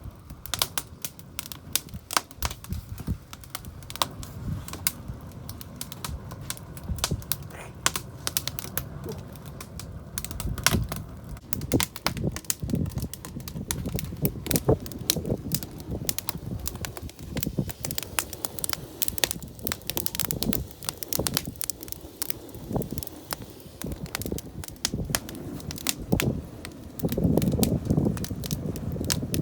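Wood campfire crackling, with irregular sharp pops and snaps over a low rumble of burning. The rumble grows louder near the end.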